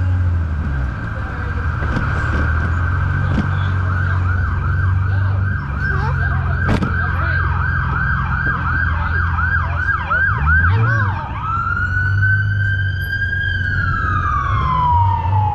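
Emergency vehicle siren sounding loud and close. It holds a steady tone for a few seconds, switches to a rapid yelp of about three warbles a second, then rises into a wail that falls away near the end, over a steady low rumble of traffic.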